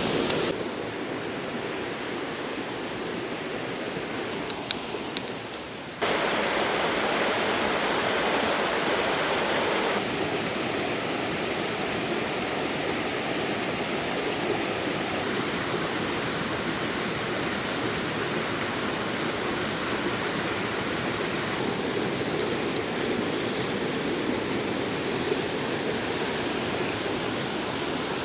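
River water rushing steadily. It jumps louder about six seconds in and eases slightly at ten.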